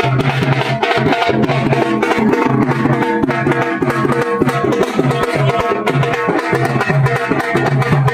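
Live Indian folk music: a hand drum playing a quick steady rhythm with a plucked string instrument over it.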